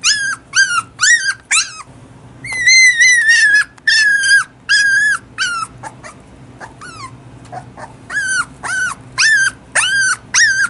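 Toy poodle puppy about six weeks old crying in a run of high-pitched whines, a few a second, each rising and falling in pitch. It holds one longer cry early on, goes quieter with only faint whimpers for a couple of seconds in the middle, then starts up again.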